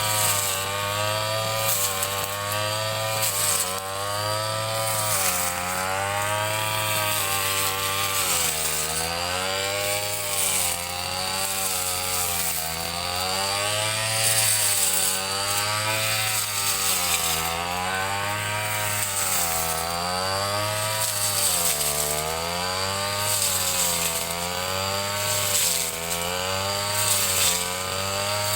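Ryu 30.5 cc two-stroke brush cutter engine running at high revs while cutting grass, its pitch dipping and rising again every second or two.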